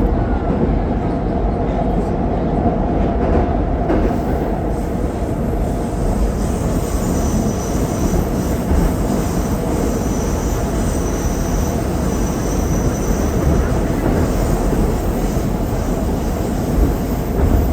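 81-761 "Oka" metro car running at speed between stations, heard from inside the car: a steady rumble of wheels on rail, with a faint high whine that comes and goes in the later part.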